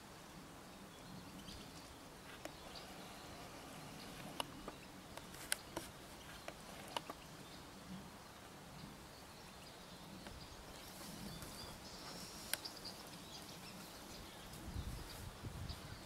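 Faint outdoor ambience with faint high bird calls about eleven to twelve seconds in, a few short sharp clicks scattered through it, and a low rumble near the end.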